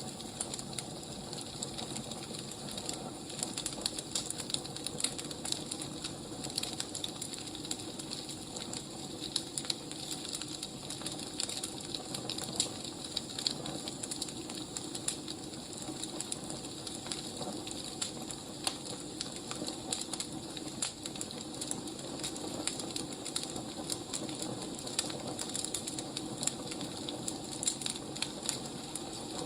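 Firewood burning and crackling, with many small irregular pops over a steady hiss.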